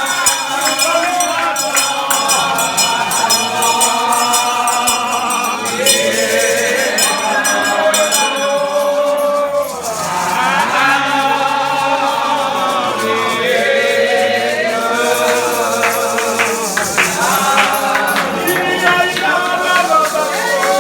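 Voices singing a church song together in Shouter Baptist worship, with shaken percussion keeping time.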